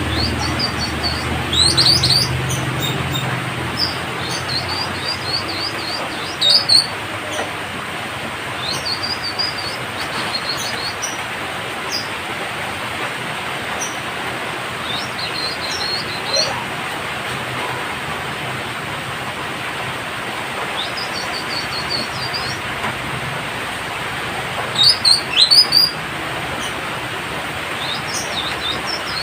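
Citrine canary-flycatcher calling: short, high-pitched, trilled phrases with quick upward sweeps, repeated every few seconds over a steady background hiss.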